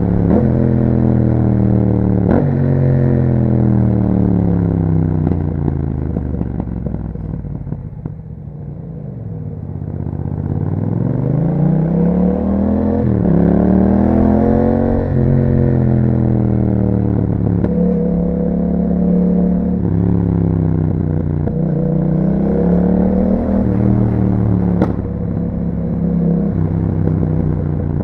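Yamaha MT-07's 689 cc parallel-twin through an aftermarket Akrapovic exhaust, heard while riding. The engine note falls steadily as the bike slows to low revs about nine seconds in. It then climbs back up with a gear change partway, falls again and holds fairly steady, with a sharp click near the end.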